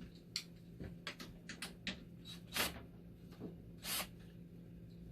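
Scattered light clicks and short scrapes from parts and wiring being handled as a dialysis machine is taken apart, two slightly longer scrapes near the middle, over a steady low hum.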